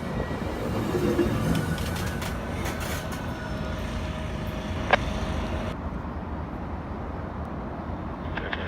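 Train rolling on the tracks: a steady low rumble with faint thin squealing tones and scattered clicks, one sharp click about five seconds in.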